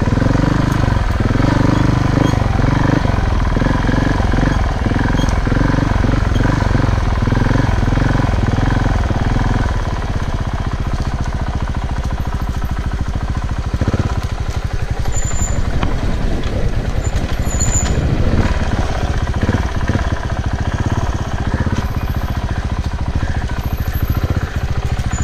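Off-road motorcycle running on a trail, its engine note rising and falling through the first ten seconds or so, then steadier and a little quieter.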